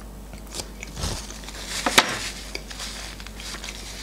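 Close-up eating sounds: chewing and mouth noises of people eating boiled beef tongue, with a few small clicks and one sharp click about two seconds in.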